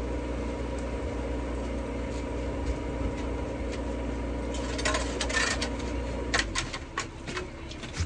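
Tractor engine running steadily at idle. From about five seconds in come a series of sharp metallic clinks and knocks, and the engine hum drops away about two-thirds of the way through.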